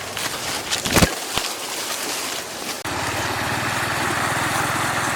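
A steady, rushing-water-like noise with a sharp knock about a second in, then a small engine comes in abruptly about three seconds in and runs steadily with an even pulse.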